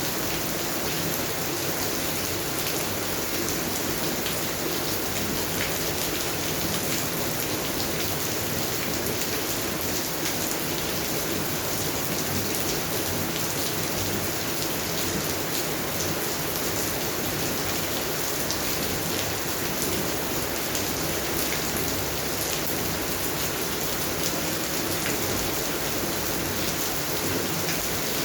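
Steady rain falling on a garden's plants and ground, an even hiss with fine pattering drops that holds level throughout.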